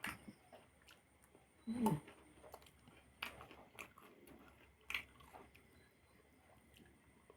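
A person chewing and eating with mouth sounds: scattered wet smacks and clicks, the loudest about two seconds in.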